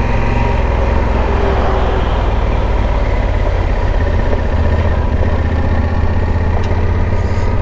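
Yamaha Super Tenere's 1200 cc parallel-twin engine running steadily while riding, with wind and road noise rushing past the bike.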